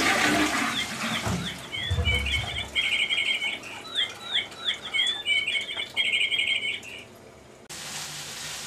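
The tail of a toilet flush fades out, then the bird chirps the same phrase twice: a few swooping chirps, each followed by a fast trill. There is a low thud about two seconds in.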